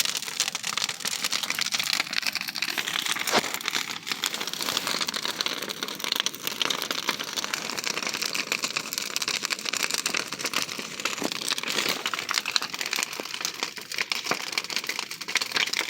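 Large bonfire crackling, a dense run of quick pops and snaps over a steady hiss.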